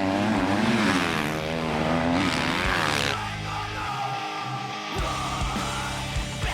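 Motocross bike engines revving up and down, which cut off suddenly about three seconds in. Heavy rock music with guitar and drums takes over.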